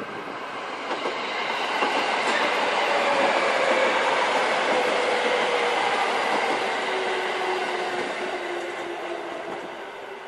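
A train running through the station, wheels clattering on the rails, growing louder over the first couple of seconds and fading again near the end, with a steady tone that slowly sinks in pitch.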